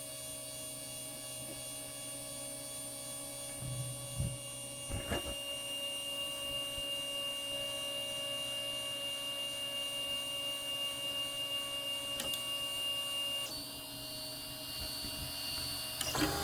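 Solidoodle 2 3D printer running: a steady mechanical hum with several steady tones, joined by a high steady whine from about five seconds in that stops about three seconds before the end. A few short knocks come around four and five seconds in.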